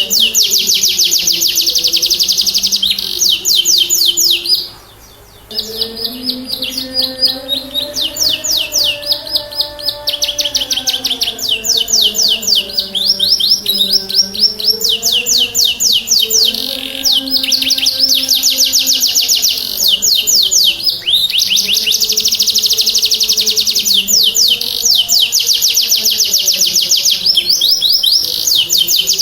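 Domestic canary singing a full, vigorous song: long runs of fast rolling trills, high-pitched, with a brief break about five seconds in. A faint low wavering tone runs underneath.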